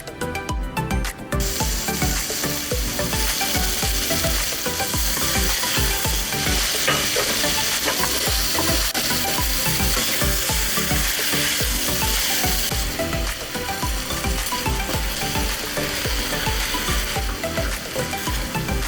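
Food sizzling in a hot frying pan, starting about a second in and running on steadily, over background music with a beat.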